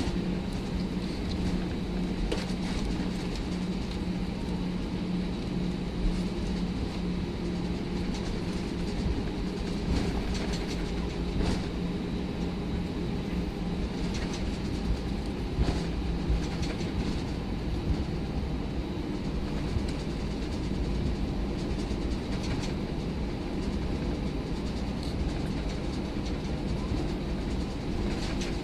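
Steady cabin noise inside an Airbus A319: a low, even engine hum under a rumbling rush, with a few brief light knocks now and then.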